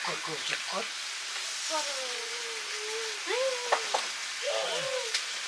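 Fiddlehead fern curry frying in a wok over a wood fire, a steady sizzle. Over it, from a few seconds in, come several long, wavering high-pitched calls.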